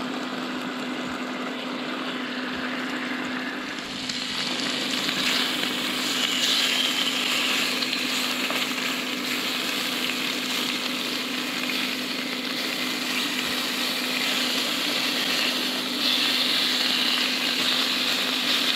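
Three rashers of bacon sizzling in a frying pan on a halogen hob, a steady hiss that grows louder about four seconds in as the pan heats up, over a steady low hum.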